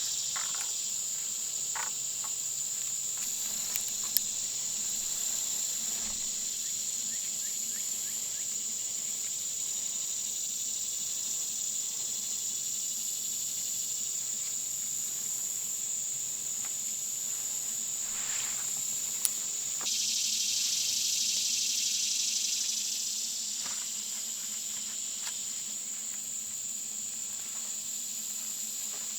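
Steady, high-pitched chorus of insects such as crickets, with a few faint clicks and knocks. The chorus grows suddenly louder about twenty seconds in and eases back a few seconds later.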